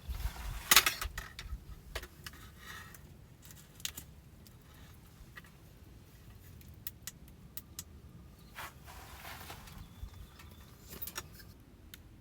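Small hard objects being handled: a burst of clicks and rattles, loudest a little under a second in, then scattered light clicks and brief rustles.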